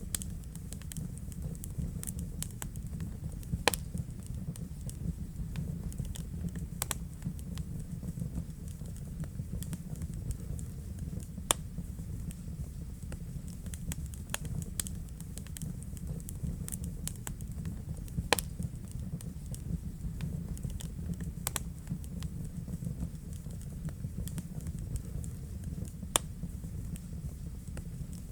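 Wood fire burning in a fireplace: a steady low rumble with irregular crackles and sharp pops, a few of them much louder than the rest.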